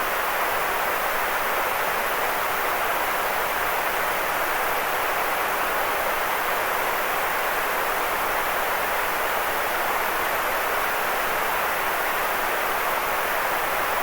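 Steady, unchanging white noise hiss, strongest in the middle range and thinner in the deep lows and high treble.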